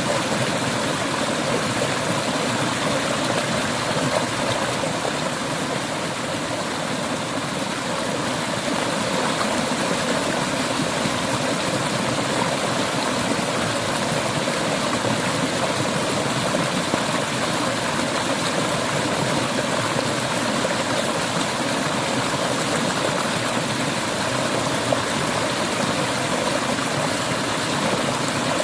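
Clear river water flowing over rocks: a steady, full rushing and splashing that does not let up.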